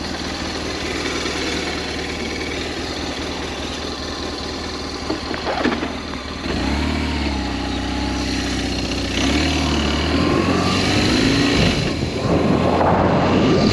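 BMW R1200S motorcycle's boxer-twin engine running under way, its note shifting in pitch with engine speed, climbing and dropping as the rider works the throttle and gears, over a steady rushing noise.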